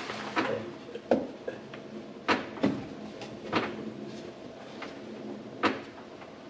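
About six sharp, irregular knocks and bumps of a wall panel being pushed and tapped into place inside a truck cap.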